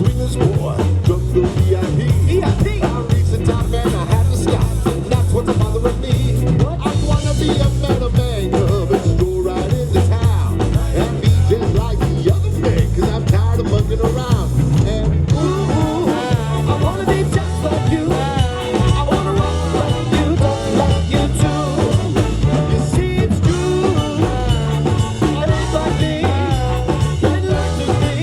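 A live swing band playing an up-tempo number, with a drum kit keeping a steady beat.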